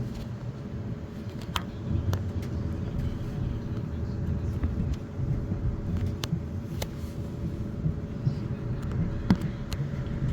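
Class 450 electric multiple unit under way: a steady low rumble of wheels on rail with a faint steady hum, broken by scattered sharp clicks and knocks.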